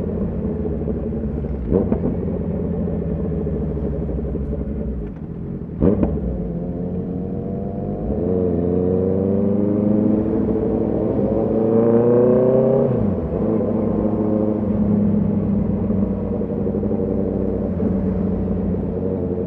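Honda CB650R inline-four engine and exhaust under way: a steady run with two short knocks in the first six seconds, then the engine pulls up in pitch for about five seconds from roughly eight seconds in before dropping back to a steady run.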